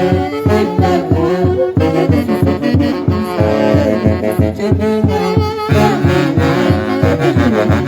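Live band music from a Huancayo orchestra: saxophones and brass play a sustained melody over a steady, driving beat.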